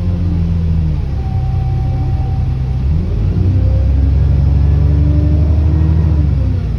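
ADL Enviro400 double-decker bus engine pulling under load, heard on board, its note stepping between gear changes and louder in the second half. A thin turbo whine sits above the engine note.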